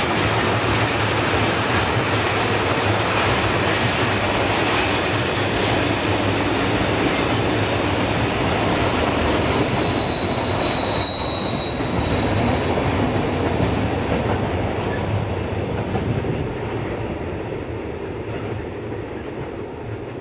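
Freight train wagons rolling past on curved track: a steady rumble of wheels on rail, with a brief high wheel squeal about ten seconds in. The sound fades over the last few seconds as the end of the train moves away.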